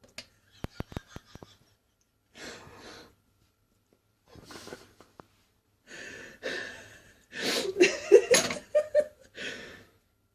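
A person's stifled, wheezing laughter in breathy bursts that grow louder and break into voiced laughing near the end, after a quick run of sharp clicks at the start.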